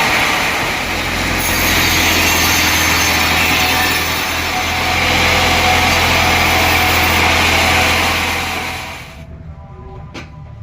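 Sawmill saw running and cutting through mahogany wood, a loud steady noise with a low hum underneath. It cuts off suddenly about nine seconds in, leaving a couple of light knocks.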